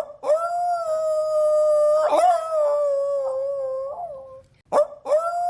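Wolf howling: one long, steady, slightly wavering howl of about four seconds, then a second howl starting near the end.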